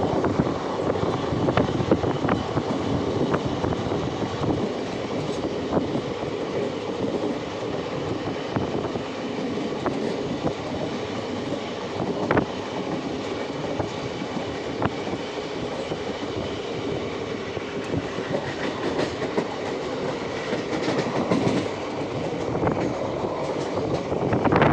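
Train running steadily along the track: a constant rumble with scattered clicks of the wheels over rail joints.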